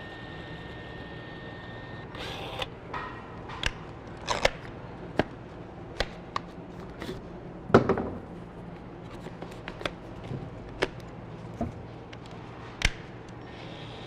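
Battery-powered caulk gun motor whining steadily, cutting off about two seconds in, followed by scattered clicks and knocks of the gun and metal duct being handled, the loudest a little before the middle.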